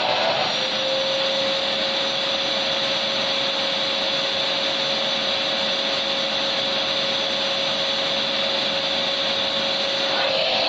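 Vacuum cleaner running steadily: a constant rushing whoosh of air with a steady mid-pitched whine from the motor, unchanging in level.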